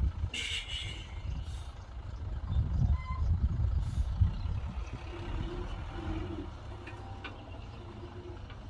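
Heavy diesel earthmoving machinery running with a low, uneven rumble, with a brief high squeal about half a second in.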